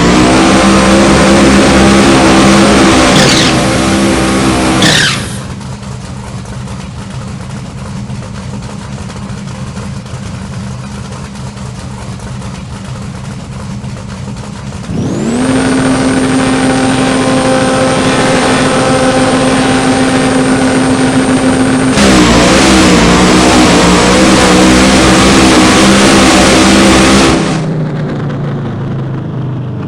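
Car engine running loud at steady revs, in sections that switch abruptly: loudest for the first five seconds or so, quieter until about halfway, then loud again until a few seconds before the end.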